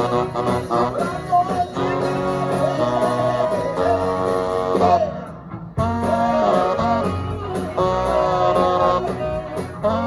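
Live swing band playing, guitar prominent over held notes, the sound dropping away briefly about halfway through before the band comes back in.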